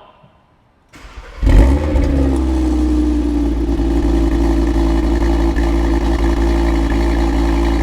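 Audi performance car engine starting. The starter cranks briefly about a second in, and the engine catches with a loud rev flare about half a second later. It then settles into a steady idle.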